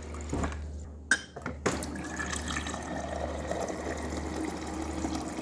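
Water from a Frigidaire refrigerator's door dispenser running into a glass through a newly fitted filter, with a short break and a click about a second in before the flow runs steadily again. The flow is running a bit more normal now that air pockets have cleared from the new filter.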